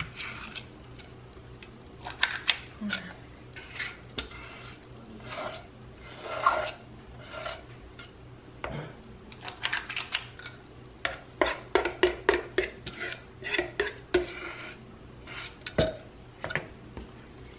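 Metal cookie scoop scraping and clinking against a stainless steel mixing bowl as thick dough is scooped out, in repeated irregular strokes that come thicker in the second half.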